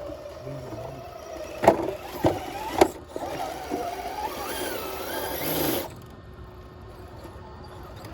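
Small electric motor and gears of a 1/10-scale RC rock crawler whining, with three sharp knocks between about one and a half and three seconds in.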